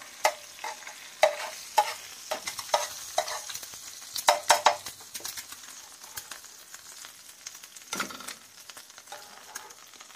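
Metal spatula scraping and clicking against a flat griddle (tawa) as chapli kebabs are lifted off, over a steady sizzle of oil frying. The scrapes come thickest and loudest about four to five seconds in, then thin out.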